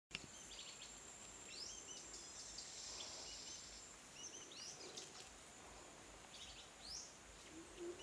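Faint forest bird calls: a few rising whistled notes, each with little hooked notes trailing after it, over a thin steady high tone that fades out about halfway through. A run of low, evenly spaced notes begins near the end.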